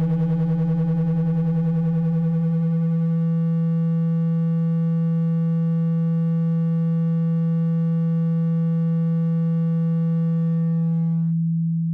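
Steady low, buzzy electronic tone, a speaker-cleaning vibration tone meant to shake water out of a wet phone speaker. Its upper overtones drop away about eleven seconds in, leaving a plain low hum.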